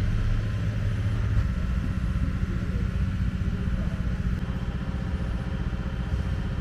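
A steady low rumble like an engine idling. A held low hum changes about a second and a half in to a faster, pulsing rumble.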